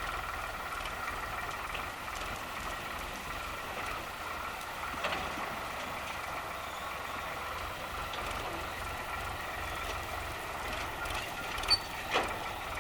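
Tractor engine and thresher running steadily, a continuous machine hum with a pulsing low rumble. Two sharp clicks near the end.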